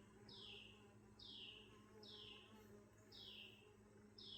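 Faint bird calls: a short falling call repeated about once a second, over a steady low hum.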